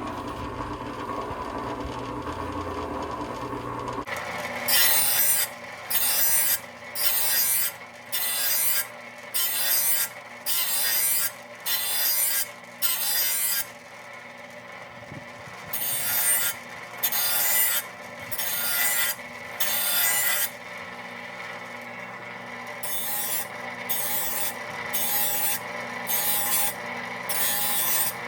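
Hand file scraping along the cutting edge of a steel mower blade, about one stroke a second in three runs with two short pauses, sharpening the blade. A steady hum is heard for the first few seconds, before the filing begins.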